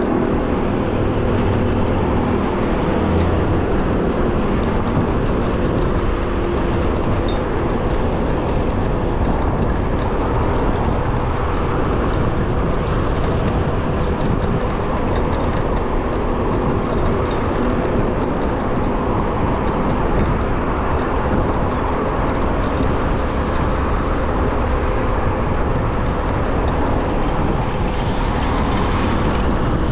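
Steady rushing wind and road-traffic noise from riding an electric bicycle at speed in city traffic, with a faint steady tone underneath.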